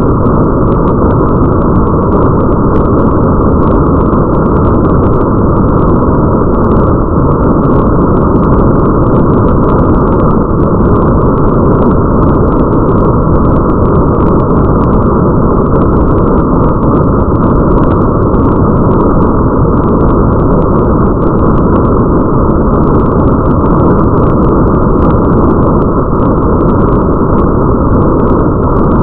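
Steady, loud rain ambience heard muffled, as if through a window: a deep, even rush of noise with the high end cut away and faint crackling above it, unchanging throughout.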